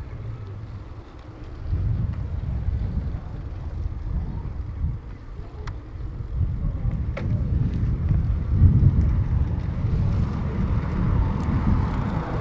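Wind buffeting the microphone, a low rumble that rises and falls, with a couple of faint clicks midway.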